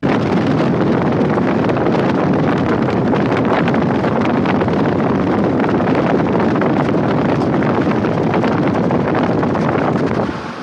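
Loud, steady rushing wind noise buffeting the microphone, as from a moving vehicle; it cuts in and out abruptly.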